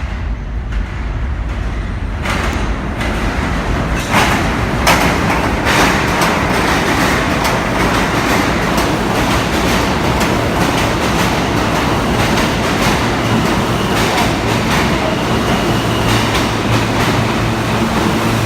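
New York City subway train running on the rails, its rumble and wheel noise building over the first few seconds, with a few sharp wheel clacks about four to five seconds in, then running on loud and steady.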